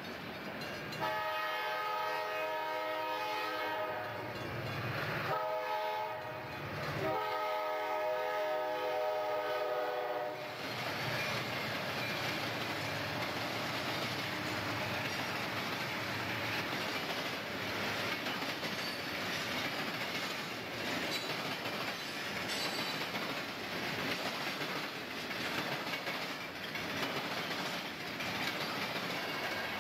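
CSX freight train's diesel locomotive blowing its horn for a grade crossing: three blasts over about the first ten seconds, the first and last long and the middle one shorter. Then the train rolls past with a steady noise of wheels on rail and clickety-clack.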